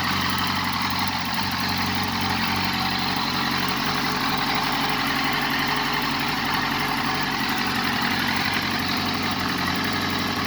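Yamaha R6 race bike's inline-four engine idling steadily through its titanium exhaust system.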